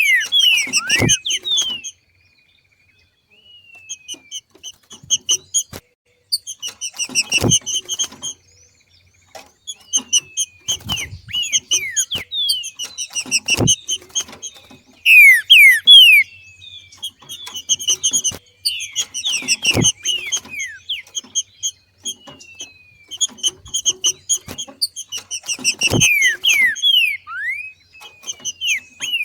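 Green-winged saltator (trinca-ferro) giving its 'macheado' call, the call of a bird coming into breeding condition. It comes as bursts of rapid chattering about every six seconds, mixed with short falling whistled notes, and each burst has a soft low thump. The loudest moment is a couple of strong whistled notes about halfway through.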